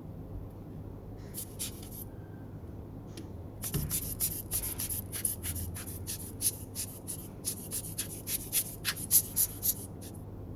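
Plastic spudger scraping hardened residual glue off the inside of a tablet's housing: a few scrapes, then a run of quick short strokes, about three a second, from about four seconds in until near the end.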